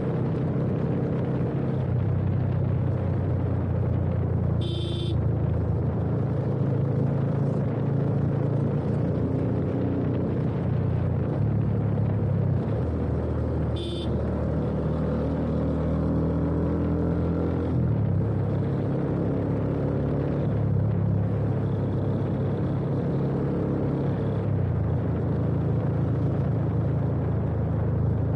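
Yamaha FZ25 single-cylinder engine breathing through an aftermarket full-system exhaust with an Akrapovič-replica slip-on, running on the move. Its pitch steps up and down repeatedly through gear changes and throttle changes. Two brief sharp sounds come about five seconds in and again near the middle.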